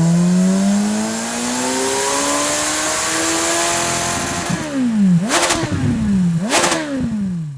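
Kawasaki Z1100's inline-four engine through an SC-Project CR-T slip-on exhaust, pulling under load with the pitch climbing steadily for about four and a half seconds. Then the throttle closes and two sharp blips come about a second apart, the pitch falling after each, as on downshifts while slowing.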